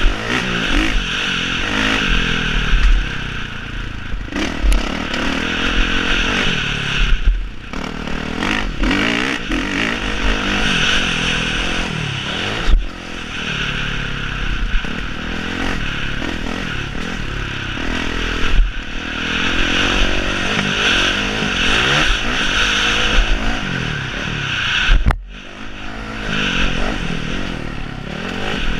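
Motocross bike engines revving hard, their pitch rising and falling continuously, with a few abrupt breaks in the sound.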